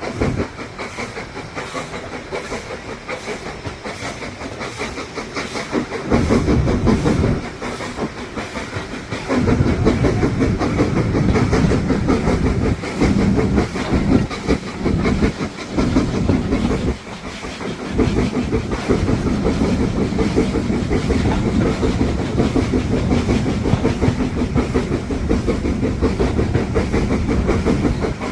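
Steam-hauled passenger train heard on board while running: steady wheel-on-rail rumble with the clickety-clack of wheels over rail joints. It gets louder about six seconds in and again near ten seconds, with a few short dips after that.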